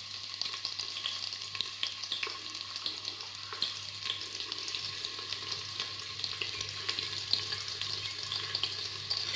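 Sliced onions frying in hot oil with whole spices in a pressure cooker: a steady sizzle with small crackles and pops throughout.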